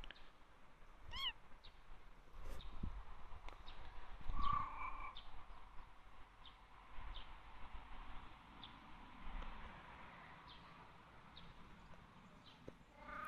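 Birds calling: short high chirps from a small bird repeating about once a second, with a few louder, lower calls, the strongest about four and a half seconds in and another at the very end. Low rumble of wind and handling on the microphone underneath.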